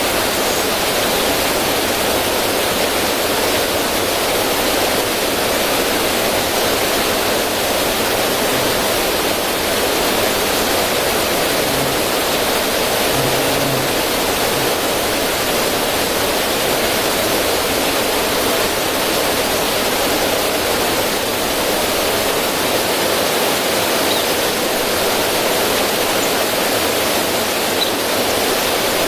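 River current splashing over rocks in a small cascade: a steady, even rush of running water.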